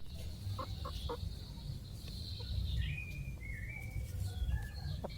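Chickens clucking and calling: a few short clucks in the first second, then a long high thin call that steps down in pitch, over a steady low rumble.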